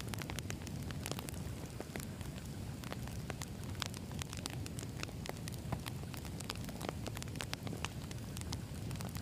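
Wood campfire burning: a steady low rumble of flames with many sharp, irregular crackles and pops from the burning logs.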